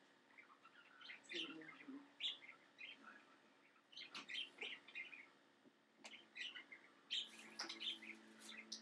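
Faint bird chirps, short and scattered in small clusters, over a low steady hum.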